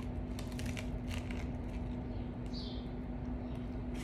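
A person chewing a bite of egg sandwich, with small wet mouth clicks, over a steady low hum. A brief high chirp comes about two and a half seconds in.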